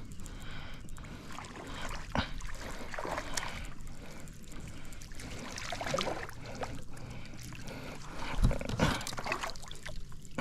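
Water and handling sounds on a kayak as a hooked kokanee is brought to the net: irregular splashes and knocks, the loudest about eight and a half seconds in.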